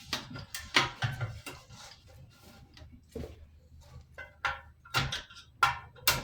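Metal parts being handled and fitted on a mini bike's welded gas tank mount: a string of sharp clinks and knocks, a few of them ringing briefly.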